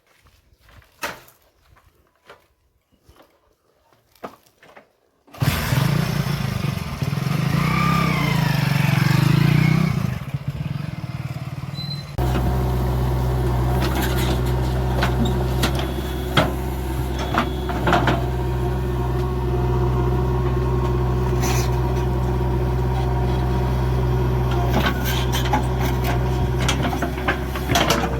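A few faint clicks and knocks, then about five seconds in a heavy diesel engine comes in suddenly. It runs unevenly with a wavering whine for several seconds, and from about twelve seconds in it settles into a steady, even run.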